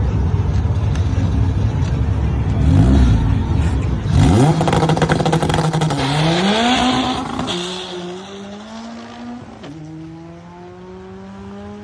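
Turbocharged Honda Civic drag car launching hard after a loud rumble. Its engine pitch climbs steeply, drops back at each of about three gear changes and climbs again, and the sound fades as the car pulls away.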